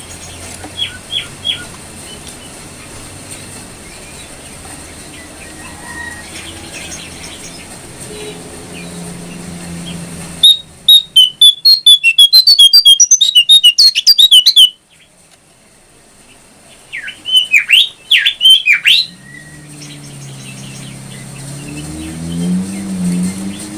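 Jongkangan coklat songbird calling: a few faint chirps, then about four seconds of loud, rapid high-pitched chattering that cuts off abruptly. A little later comes a short run of loud notes that each sweep down in pitch. A low engine hum rises near the end.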